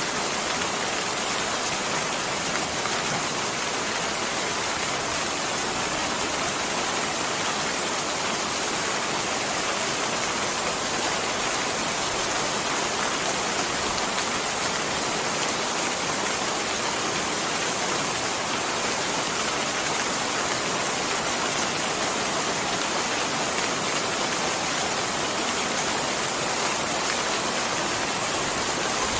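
Steady rain, an even unbroken hiss with no changes.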